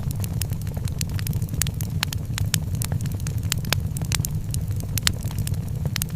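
Fireplace fire crackling, with many irregular sharp pops and snaps over a steady low rumble.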